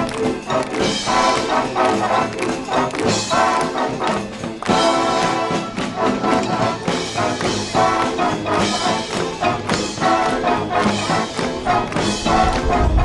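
A brass band playing live, trumpets and trombones over percussion, loud and rhythmic.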